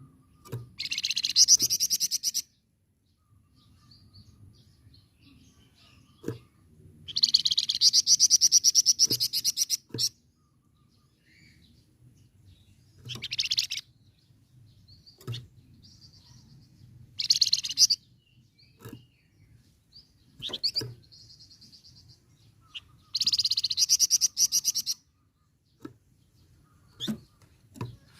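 Flamboyan songbird singing in bursts of fast, rattling repeated notes, the vigorous chattering and rolling song that bird keepers call 'nyecret' and 'ngerol'. Six bursts come with pauses between them; the longest are about a third of the way in and near the end.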